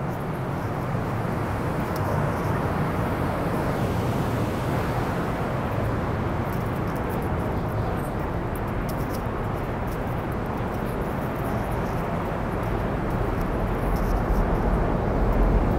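Steady low hum and rumble of a New Jersey Transit multilevel train standing at an underground platform, growing somewhat louder near the end, with a few faint clicks.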